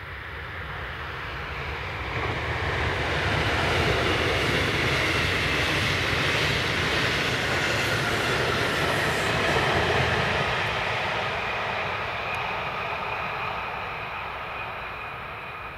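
Train passing by: the running noise of wheels on rails swells over the first few seconds, holds loud through the middle, then fades away toward the end.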